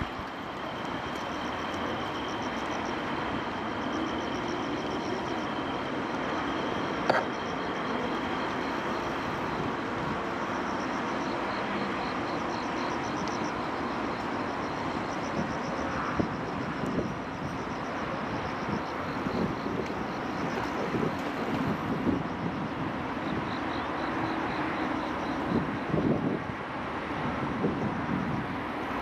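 Night-time city ambience: a steady wash of traffic noise, with insects chirping in short repeated trills over it. A single sharp click sounds about seven seconds in.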